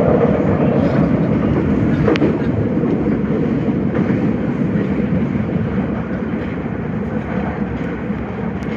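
Nagoya Subway Higashiyama Line 5050-series train running, a steady rumble of wheels on rail and running gear heard from on board. A brief sharp squeak about two seconds in, and the noise eases a little in the second half.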